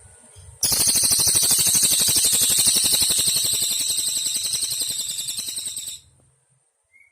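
A cililin, a small cicada, calling: one loud, high, rapidly pulsed buzz of about five seconds. It starts abruptly about half a second in, eases slightly in level, and cuts off near the end.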